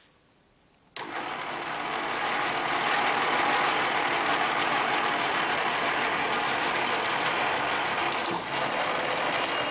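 A machine starts up abruptly about a second in and runs with a steady, loud mechanical rattle and hiss, with a couple of sharp clicks near the end.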